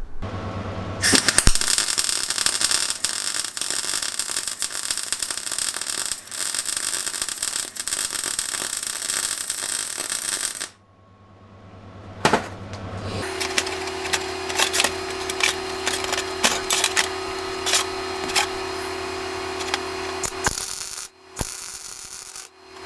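Welding arc crackling as a threaded rod is welded to a steel battery bracket, in two runs. The first run cuts off suddenly about ten seconds in. The second starts a few seconds later with a steady hum under it and ends near the end.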